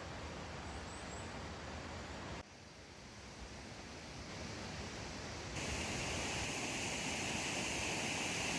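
Steady outdoor natural ambience, an even rushing noise with two short high chirps near the start. It drops suddenly about two and a half seconds in, then turns brighter and louder about five and a half seconds in.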